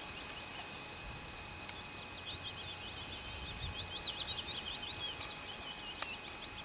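A small bird singing outdoors, a run of quick high chirps starting about two seconds in, over quiet lakeside background noise, with a couple of faint sharp clicks.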